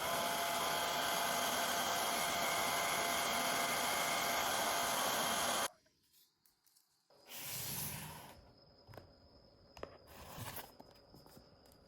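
Portable USB mini fan running with a steady airy whir, cutting off abruptly a little past halfway; after it, a brief rush of air and a few faint clicks.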